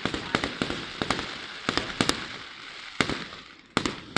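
Fireworks display: about a dozen sharp firework bangs at irregular intervals, with crackling between them that thins out toward the end.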